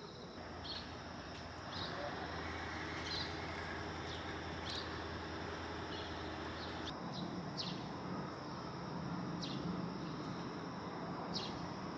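A small bird chirping: short single chirps every second or so, over a steady background hum and a constant high insect drone.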